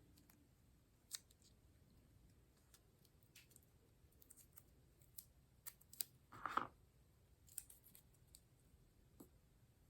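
Scissors snipping paper: scattered small snips and clicks, with one louder, longer cut about six and a half seconds in.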